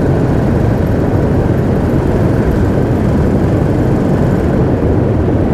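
Royal Enfield Classic 350's single-cylinder engine running steadily while the motorcycle cruises along, mixed with steady wind rush over the rider's microphone.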